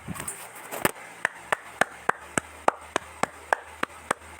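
Clapping: single sharp claps at an even pace of about three to four a second.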